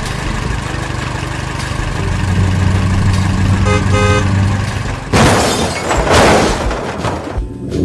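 Cartoon truck sound effects: a steady low engine hum, two short horn toots about four seconds in, then a loud rushing, crashing noise lasting about a second and a half.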